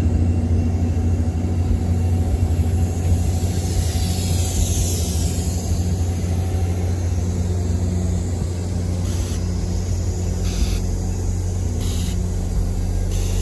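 NJ Transit passenger train rolling slowly along the platform, with a steady low rumble and hum. A few faint ticks come about a second and a half apart near the end.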